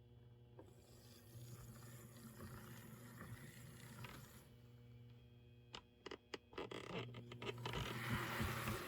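Small electric motor and gear train of an HO-scale RS-11 model locomotive running on the test track, a hissing whir that starts about half a second in, drops away around four seconds, and comes back louder near the end, with a run of clicks in between. The seized gears, freshly oiled, are turning freely again. A steady low hum sits underneath.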